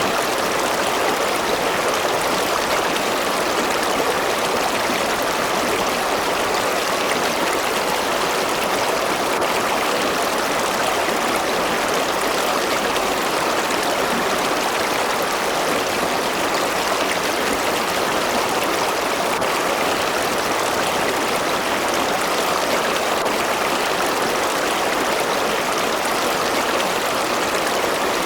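River water rushing and splashing over rocks, steady and unbroken.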